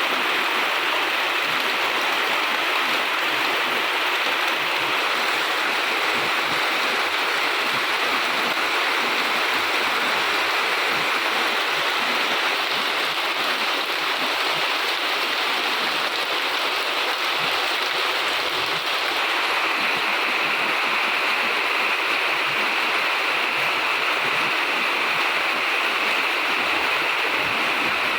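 Steady heavy rain, a continuous even hiss of falling and running water.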